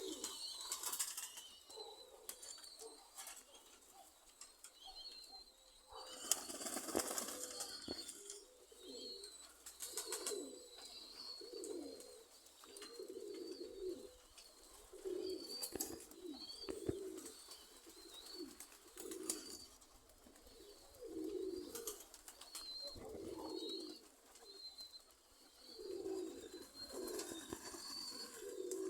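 Domestic pigeons cooing over and over, several birds calling in turns, with a few short rustling bursts among the calls.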